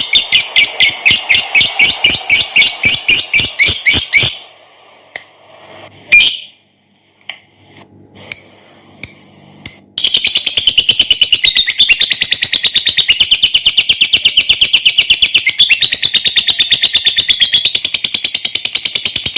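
Lovebird's long chattering 'ngekek' song: a run of rapid, high-pitched repeated notes that breaks off about four seconds in. A few scattered short chirps follow, then another long, unbroken run of fast chattering starts about ten seconds in.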